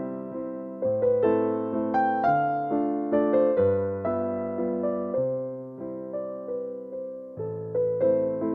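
Background music: a gentle piano melody with sustained chords, its notes sounding and fading one after another.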